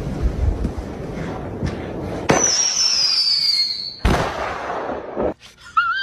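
Fireworks going off: a dense crackling rumble, then a sharp bang about two seconds in with a high whistle falling in pitch after it, and two more bangs near the end.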